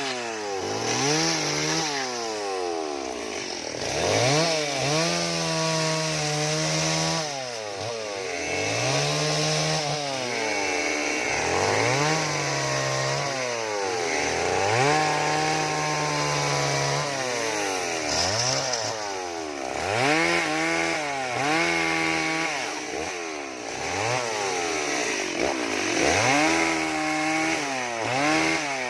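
Chainsaw engine revving up and falling back again and again, about every two seconds, as the saw cuts into wood.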